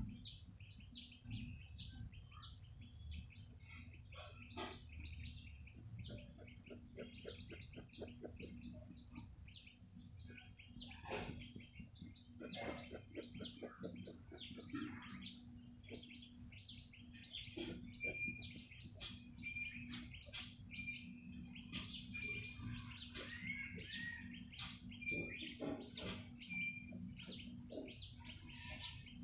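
Small birds chirping: many short, high calls that sweep downward, several a second, more crowded in the second half. A steady low hum runs underneath.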